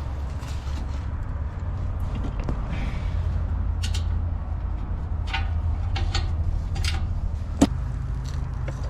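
Socket wrench working on rusted exhaust bolts: scattered metal clicks and clinks, with one sharp loud click near the end, over a steady low rumble.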